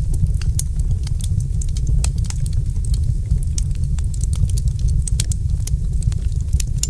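Wood fire crackling: many sharp, irregular pops and snaps, several a second, over a steady low rumble.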